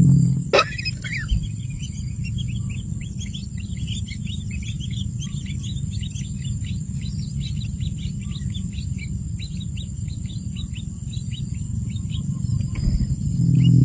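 Small birds chirping: many short, quick high chirps over a steady low rumble, with a sharp click about half a second in.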